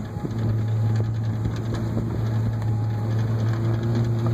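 Pickup truck engine running with a steady low drone at an unchanging pitch.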